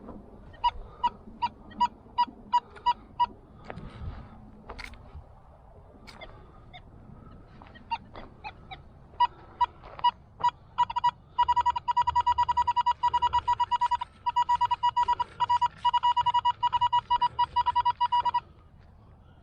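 Metal detector's audio tone beeping in short pulses as the coil passes over a buried target. A run of about eight evenly spaced beeps comes about a second in, a few more come midway, then a fast, unbroken run of beeps lasts several seconds and stops abruptly near the end.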